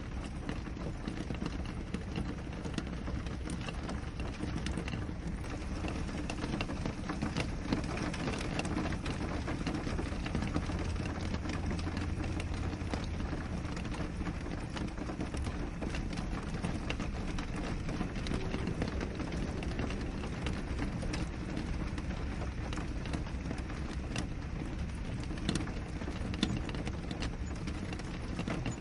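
Steady rain on a window pane: a constant rushing hiss with many small drop ticks against the glass. A low hum joins for about three seconds midway.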